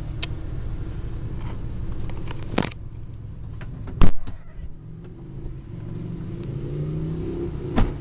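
A 2006 Chevrolet Colorado pickup's engine running, with a click and then a loud thump about halfway through. After the thump the engine sound dips, then comes back with its pitch rising, and there is another click near the end.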